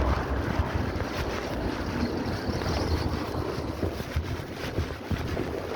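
Wind buffeting the microphone: a steady rushing noise with a heavy low rumble that eases toward the end.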